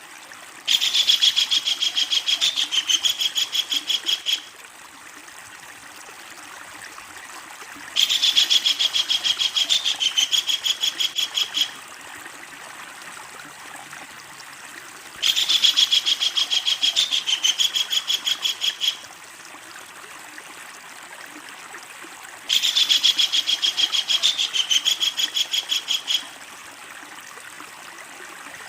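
Kingfisher giving a loud, rapid chattering call in four bouts, each about three and a half seconds long and about seven seconds apart, with a faint steady background noise between them.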